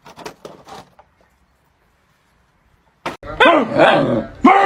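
A dog vocalizing: a string of short pitched yelping calls that bend up and down, ending on a longer held call, after a few faint clicks and a short quiet spell.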